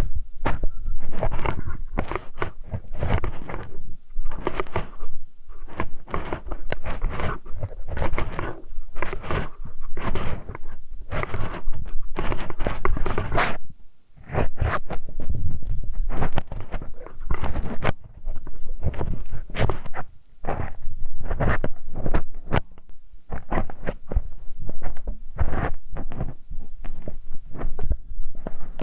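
Close-miked ASMR ear-cleaning sounds: a tool scratching, rubbing and knocking against the microphone in quick, irregular strokes, with a few brief pauses.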